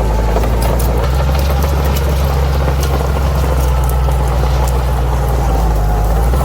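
Bulldozer's diesel engine running steadily with a deep, even drone, its note shifting slightly about a second in and again near the end.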